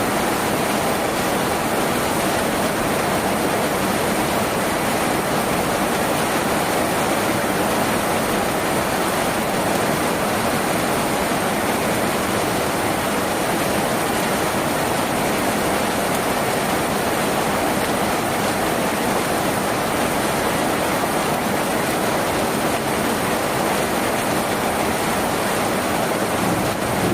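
Steady heavy rain drumming on a tin roof, a dense even patter.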